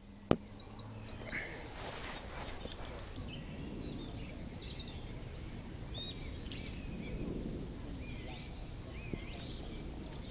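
Small birds chirping and calling over a steady outdoor background hiss, with a sharp click just after the start and a brief rushing burst about two seconds in.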